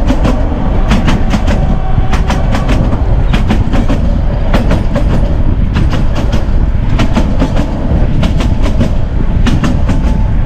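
Narrow gauge passenger train rolling along jointed track: the wheels clack over the rail joints in quick clusters of clicks about once a second, over a loud, steady rumble of the carriage.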